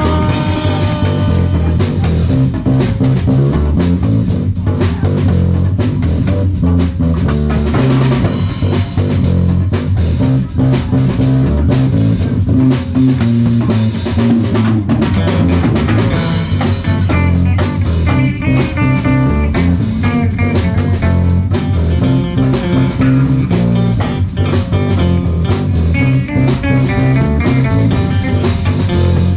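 Live rock band playing an instrumental break: electric guitar over drum kit, percussion and bass guitar, with a steady beat and no singing.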